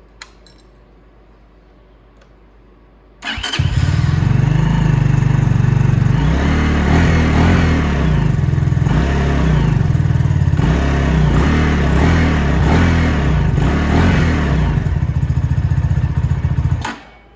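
Venom X22R Max 250cc fuel-injected motorcycle engine starting about three seconds in, then running with the revs rising and falling for about thirteen seconds before it cuts out suddenly near the end. The engine has already stalled once on this new bike's first starts.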